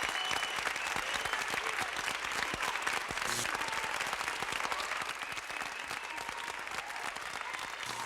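Crowd applauding, the clapping slowly dying down.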